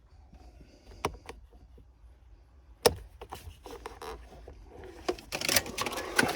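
Plastic dashboard trim being pried and worked loose by hand: a few separate clicks, one sharp snap about three seconds in, then a growing run of plastic scraping, clicking and rattling near the end as the piece comes free of its tabs.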